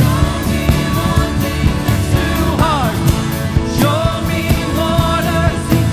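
Live worship band playing a Christian praise song with drums keeping a steady beat, and a singer's voice gliding between notes over it.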